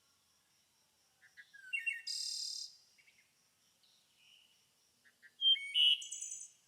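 Songbirds chirping and singing in short phrases, with a burst of calls about two seconds in and a louder one near the end.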